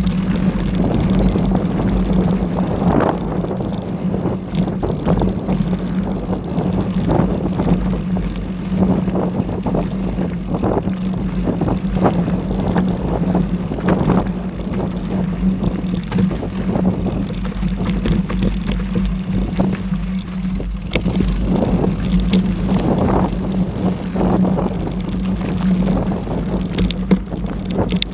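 Mountain bike riding over a dirt forest trail: steady rolling noise with frequent short rattles and knocks as the bike goes over the ground.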